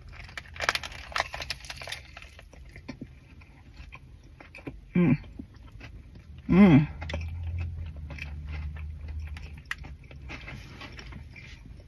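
Biting into a fried chicken and hash brown burger with a crackly crunch in the first couple of seconds, then chewing it with mouth noises. Two short hums from the eater come about five and six and a half seconds in.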